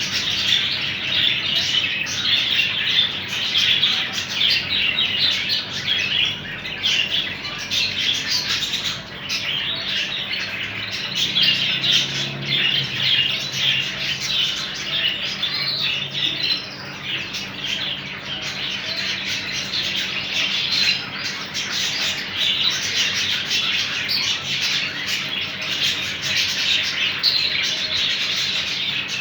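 A flock of caged ornamental birds chirping and squawking together in a continuous dense chatter of many overlapping high calls.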